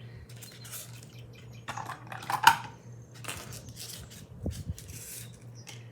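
Metal snap button charms clicking and clinking as they are handled, with a sharper clack about two and a half seconds in.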